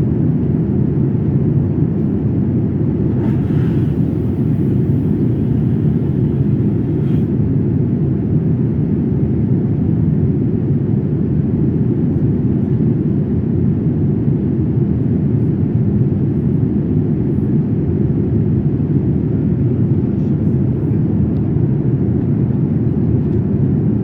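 Cabin noise of an Airbus A350-900 at cruise: a steady low rumble of airflow and its Rolls-Royce Trent XWB engines, heard from inside the passenger cabin.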